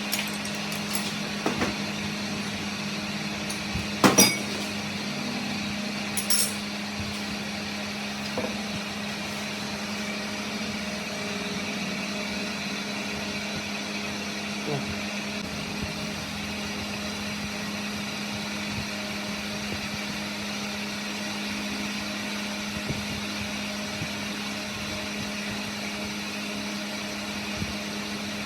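Steady hum of a running workshop machine, with a few sharp metal-on-metal knocks and clinks in the first several seconds, the loudest about four seconds in.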